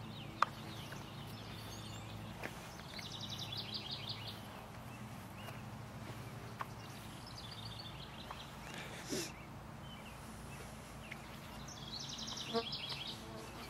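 Outdoor birdsong: a bird sings rapid trilled phrases three times over a steady low background hum. There is a sharp click about half a second in.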